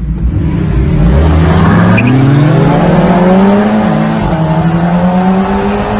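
Car engine accelerating hard, its pitch climbing steadily for about three seconds, dipping briefly near four seconds in, then holding at high revs.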